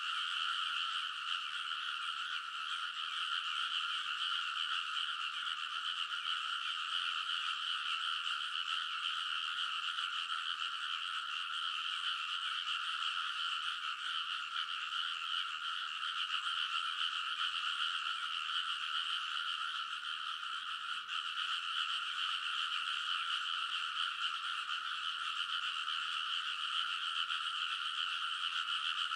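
A dense chorus of many frogs calling together in a rice paddy, a steady unbroken wall of overlapping croaks that does not rise or fall.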